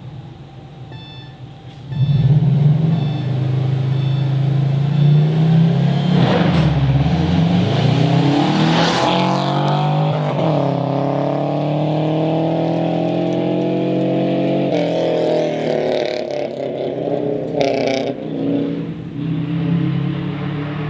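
A 1990 Subaru Legacy rally car's naturally aspirated flat-four engine revving hard as the car drives past at speed. It comes in suddenly about two seconds in, and its pitch climbs and drops back several times at the gear changes.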